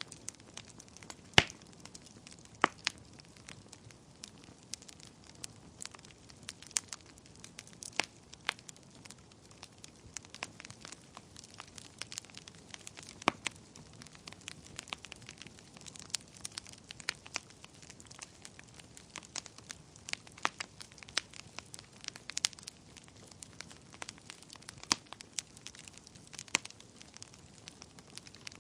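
Wood fire burning in a fireplace, crackling and popping at irregular intervals over a soft hiss, with one louder pop about a second in.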